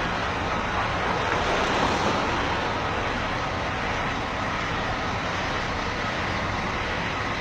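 Heavy vehicle engine running steadily, a continuous rumble under a broad even noise.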